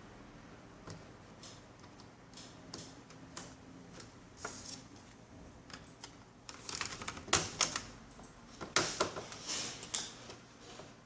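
Irregular clicks and taps of small plastic and metal laptop parts being handled, with two flurries of louder clicking about two-thirds of the way through.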